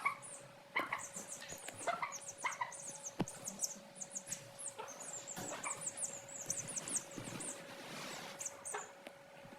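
Chicks cheeping in rapid, very high-pitched runs almost without pause, with a few short, lower clucks from a hen in the first seconds.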